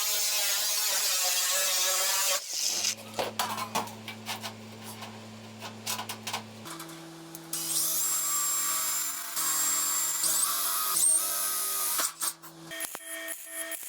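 Electric power tools at work on a workshop build: first a loud, even grinding or cutting noise, then an electric motor humming steadily with scraping and clicks. The hum jumps to a new pitch twice, about seven seconds in and near the end, and high whines come and go in the middle.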